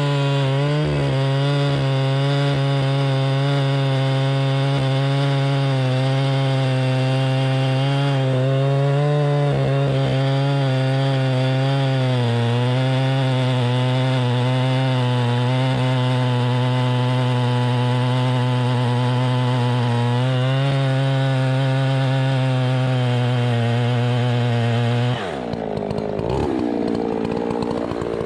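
An engine running hard at steady, high revs for a long stretch, its pitch wavering slightly. Near the end the revs dip and swing up and down.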